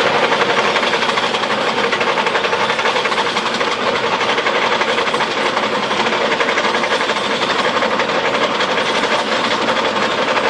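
A heavy machine running steadily under load, with a dense, rapid rattling clatter and no change in pace.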